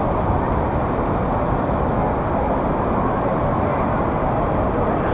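Steady roar of an indoor waterpark: rushing water and echoing background noise, with faint distant voices.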